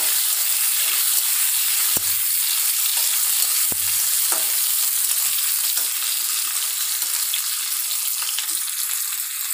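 Onions, garlic, ginger, cashews and tomato pieces sizzling in hot oil in a metal kadhai, stirred with a flat metal spatula. The spatula knocks sharply on the pan about two seconds in and again nearly four seconds in, with lighter scrapes and ticks between.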